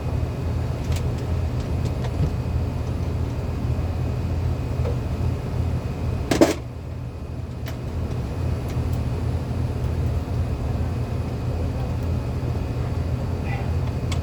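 Steady low mechanical hum, with one sharp knock about six and a half seconds in.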